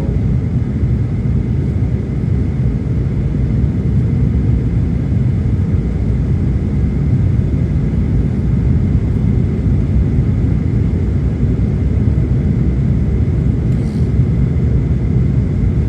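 Steady low roar of a Boeing 737-900ER's CFM56 engines and airflow, heard inside the passenger cabin in flight.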